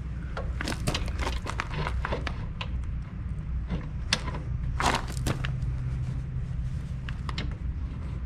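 Metal clicks and knocks as the outer clutch housing is handled and lined up against the engine, in two clusters with a few stray taps near the end, over a steady low hum.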